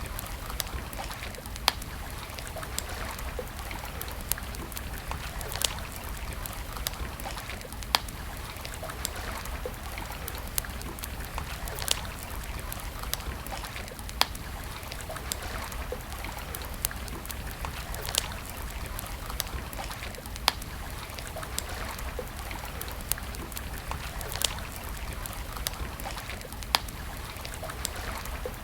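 Campfire crackling: sharp wood pops every second or two over a steady rushing hiss.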